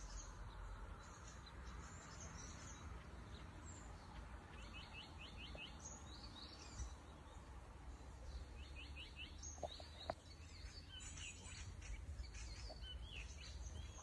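Several small songbirds chirping and singing, with two short runs of quick trilled notes, over a steady low background rumble.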